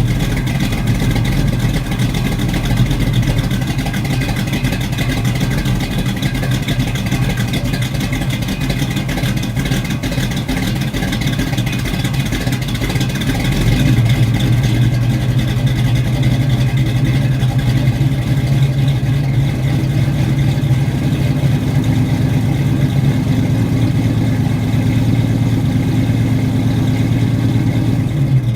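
Pontiac 400 V8 idling through Flowmaster 40 Series Delta Flow mufflers, warming up after a cold start. The idle is steady, picking up slightly about halfway through.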